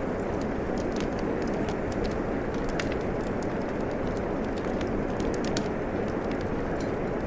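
Steady rain hiss with a wood fire crackling over it: irregular sharp pops and snaps scattered across a constant rush of falling rain.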